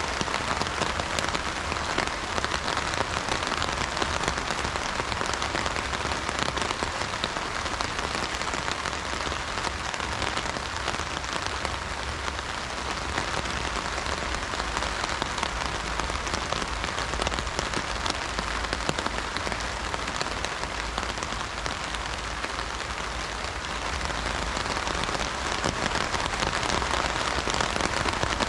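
Heavy rain drumming on an umbrella canopy, a dense, steady patter of drops, easing slightly midway and building again near the end.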